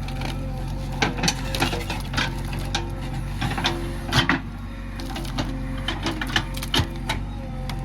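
JCB 3DX backhoe loader's diesel engine running steadily, with irregular sharp knocks and clatter from the machine working, about ten loud ones spread through.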